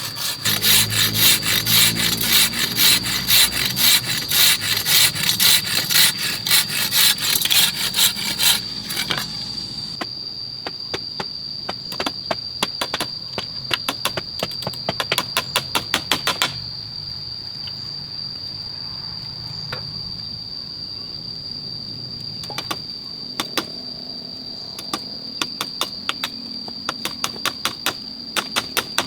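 Hand saw cutting wood with regular back-and-forth strokes about twice a second, loud for the first nine seconds, then lighter strokes and, after about sixteen seconds, scattered taps. A steady high cricket drone runs underneath.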